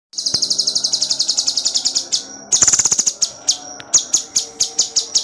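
Cucak cungkok songbird singing hard in rapid, tightly packed volleys: high chirps at about eight a second for two seconds, then after a brief dip a dense burst, followed by slower repeated chirps about three a second.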